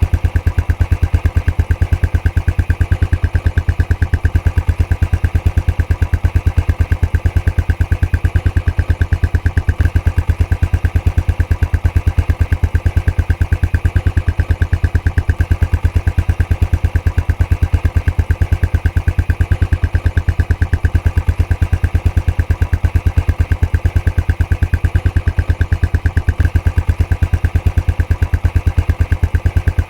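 Royal Enfield Classic 500's single-cylinder four-stroke engine idling through its stock exhaust, a steady, even beat of deep exhaust pulses with no change in speed.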